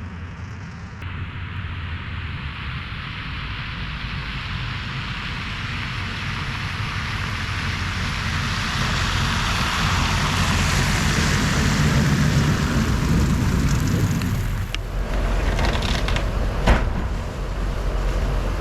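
A heavy work truck's engine running with a steady hiss over it. The hiss builds, then drops away about fourteen and a half seconds in, and a few sharp clicks follow.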